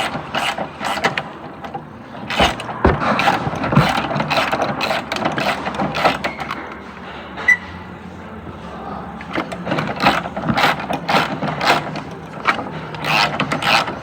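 Hand ratchet wrench clicking in short runs while working a 12 mm nut on the ABS pump bracket, with a quieter pause in the middle before the clicking resumes.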